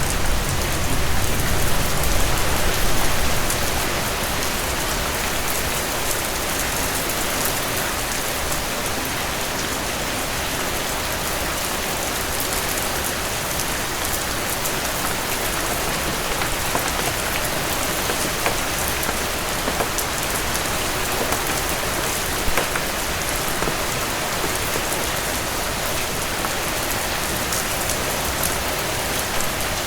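Heavy rain falling steadily on the cabin porch, a dense hiss of drops. A low rumble in the first few seconds dies away.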